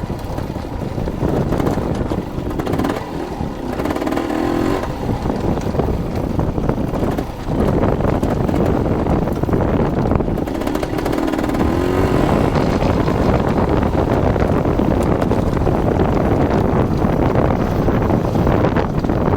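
Dirt bike engine running while riding, with heavy wind rush on the microphone; the engine note wavers briefly a few seconds in and again past the middle.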